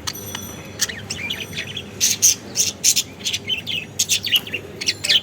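Budgerigars chirping and chattering: a quick, irregular run of short, high chirps.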